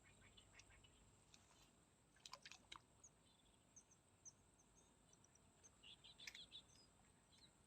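Near silence: faint, short, high bird chirps through the middle, with a few soft clicks about two and a half seconds in and again near six seconds.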